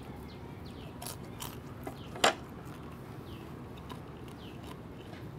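Crisp deep-fried pork intestine crunching as it is chewed: a few scattered sharp crunches, the loudest about two seconds in.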